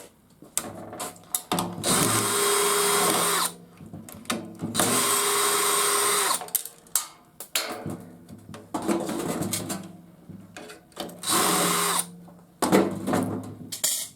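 Power drill driving out fasteners: three runs of a second or so each, with a steady motor whine, separated by clicks and rattles of parts being handled.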